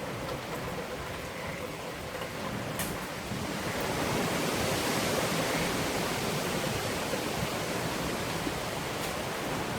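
Hurricane wind and heavy rain making a steady rushing noise that swells louder about four seconds in, as a gust comes through.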